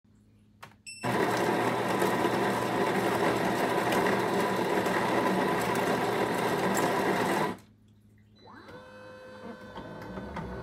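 Zulay Magia super-automatic espresso machine: a click and a short beep, then its built-in burr grinder running loudly for about six seconds before stopping abruptly. After a short pause a motor whine rises and settles into a steady hum.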